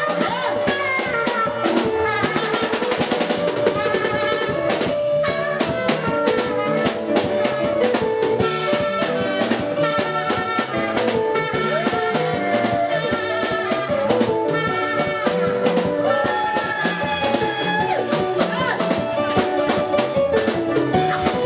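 Instrumental band music: a drum kit beats a steady rhythm under a gliding lead melody line.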